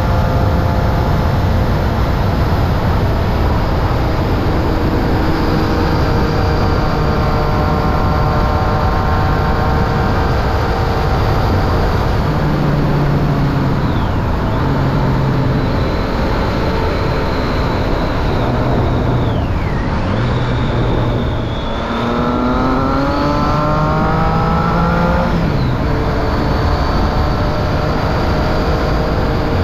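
Triumph Street Triple 675's inline three-cylinder engine through a Remus Hypercone exhaust with the dB killer fitted, riding at mostly steady revs. A little past two-thirds through, the revs climb for about three seconds under acceleration, then drop away sharply.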